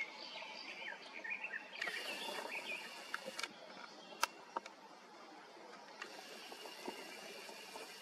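Birds singing, a song thrush among them: many short, quick chirping notes. A sharp click about four seconds in, and two stretches of faint hiss.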